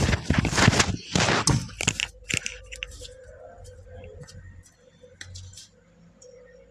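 Close-miked crunching while eating: loud crackling crunches for about two seconds, then fading to faint scattered clicks over a faint steady hum.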